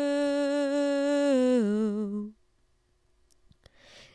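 Solo unaccompanied voice holding a long sung note on "you" that steps down in pitch twice and wavers near the end, then stops about two seconds in.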